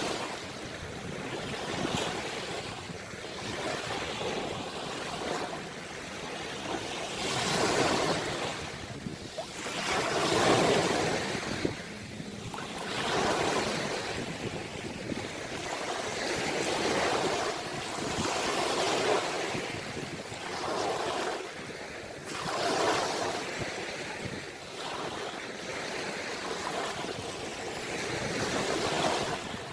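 Sea waves breaking and washing on the shore, the surf rising and falling in repeated surges every couple of seconds.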